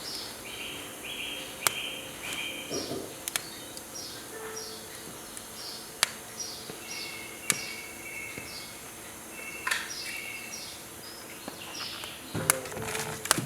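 Small birds chirping over and over in short repeated calls, with sharp scattered crackles and pops from firewood burning in a wood stove, a quick run of crackles near the end.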